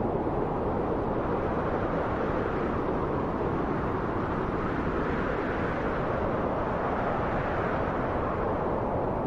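Steady rushing wind, a deep even roar with most of its weight in the low and middle range and little hiss above.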